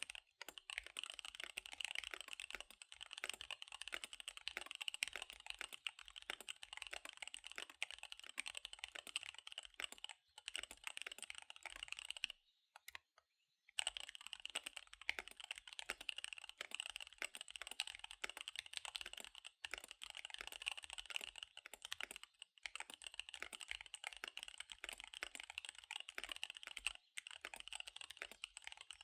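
Fast typing on a KBD75 V3 mechanical keyboard with SP-Star Dark Magic Girl tactile switches and DSA keycaps: a dense run of key clacks, broken by one pause of about a second roughly halfway through.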